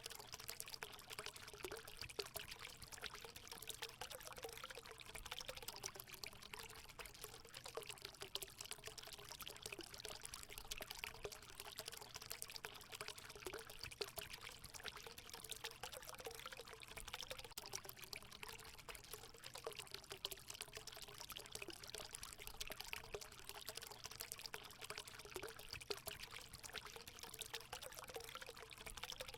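Hot-spring water pouring steadily and faintly into a pool.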